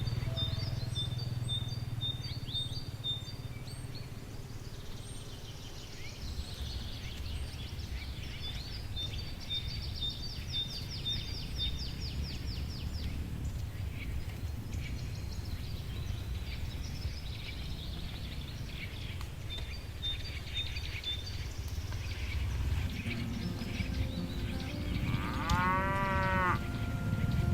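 Cattle in a pasture: a cow gives one long moo near the end, its pitch rising and falling. A steady low rumble runs underneath, with short runs of high chirps at intervals.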